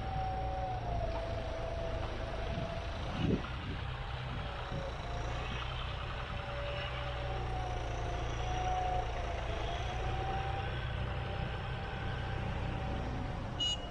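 John Deere 5310 tractor's turbocharged diesel engine running steadily, its turbo whistling in a tone that wavers slightly up and down. A brief thump about three seconds in and a short click near the end.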